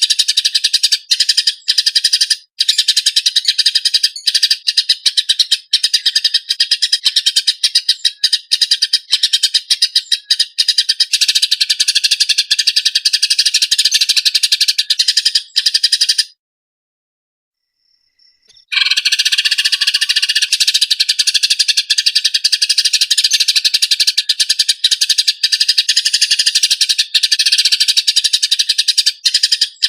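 Eurasian tree sparrows chattering in a fast, dense, harsh run of chirps, the agitated calling of sparrows fighting. It cuts off for about two seconds past the middle, then starts again.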